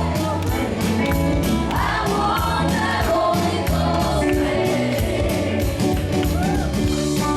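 Live gospel worship music: a band with several voices singing together over a steady beat.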